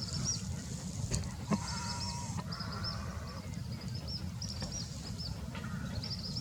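Small birds cheeping in a rapid, continuous series of short, high chirps over a steady low rumble. About a second and a half in, a brief honk-like tone sounds.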